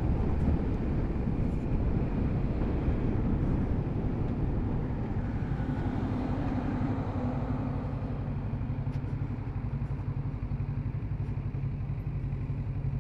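Kawasaki Z650RS parallel-twin engine running steadily while riding, its note rising a little about halfway through.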